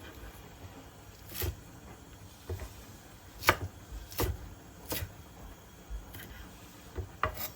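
Kitchen utensils knocking and tapping: seven or eight separate sharp knocks at uneven intervals, the loudest about three and a half seconds in.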